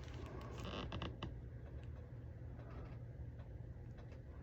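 Faint handling noises of a cross-stitch pattern kit being moved about: a few light clicks and rustles in the first second or so, then quieter creaks and rustling over a low steady hum.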